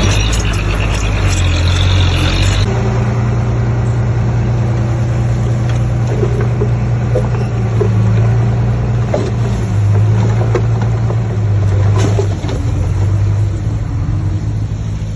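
Heavy diesel engine of construction machinery running steadily with a deep hum. The higher hiss drops away abruptly about three seconds in, and a few light knocks come through later.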